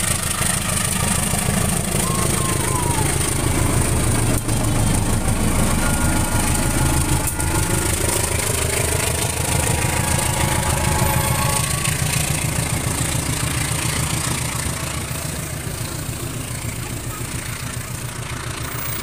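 Diesel locomotive hauling a passenger train past close by: a steady low engine drone mixed with rolling wheel and rail noise, fading over the last few seconds as the train moves away.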